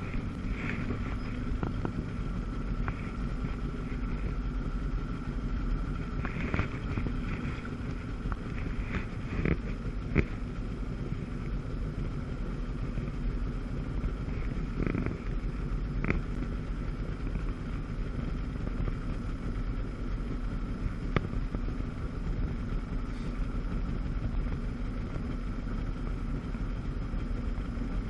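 1997 Sea-Doo GTS jet ski's 720 two-stroke engine running steadily at speed on flat water, with wind noise on the microphone. A few brief knocks come through in the middle stretch.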